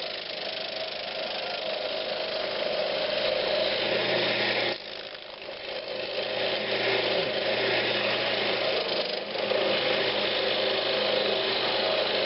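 Wood lathe running with a steady motor hum while a turning tool cuts into a spinning pine knob, giving a continuous hissing cut. The cutting noise drops away briefly about five seconds in and again around nine seconds, as the tool comes off the wood.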